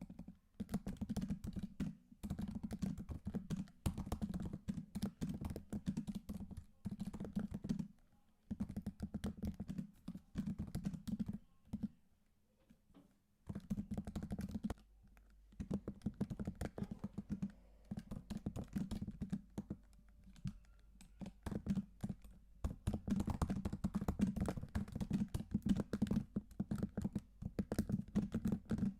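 Typing on a computer keyboard: rapid key clicks in bursts with short pauses, the longest about twelve seconds in.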